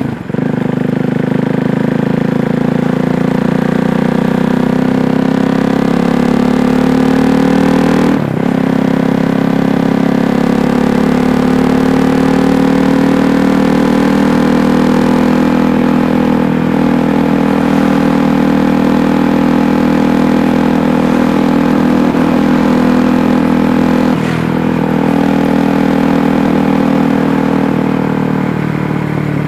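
KTM Duke 390's single-cylinder engine running under way, its pitch rising slowly. The sound breaks off briefly twice, about 8 and 24 seconds in.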